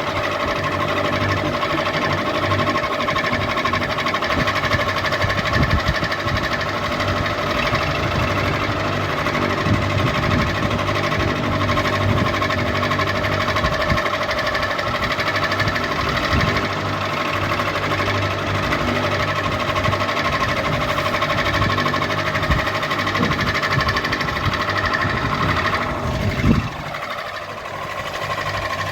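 Ceiling fan running steadily, a motor hum with a fast mechanical rattle. Near the end comes a single knock and a short falling tone, and the sound dips briefly before carrying on.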